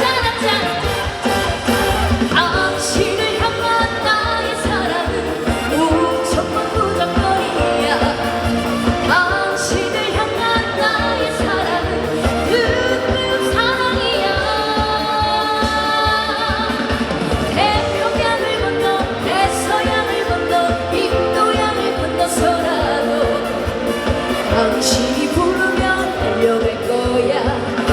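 Live trot medley: a woman singing over a loud backing track with a steady dance beat.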